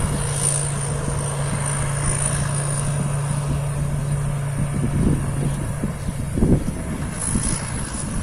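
Rice combine harvester's diesel engine running steadily, with a heavy low thump about six and a half seconds in.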